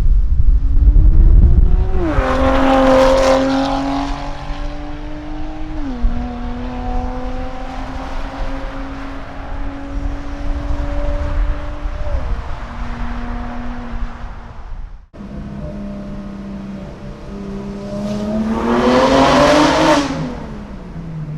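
BMW S55 twin-turbo straight-six with resonated catless downpipes and an equal-length midpipe, accelerating hard through the gears, with the exhaust note dropping at each upshift about two, six and twelve seconds in. After a break, the car comes in loud and passes by, its pitch falling as it goes away.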